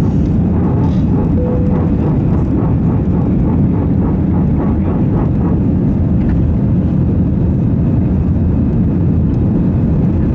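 Airbus A320 cabin noise in the climb after takeoff: a steady rumble of the jet engines and rushing air heard from a passenger seat.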